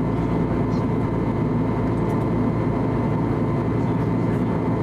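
Steady in-flight cabin noise of an Airbus A320neo with CFM LEAP-1A engines: a constant drone of airflow and engines, with faint steady whining tones over it.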